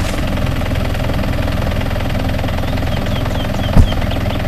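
Isuzu Trooper's engine running steadily, with a single loud thump near the end.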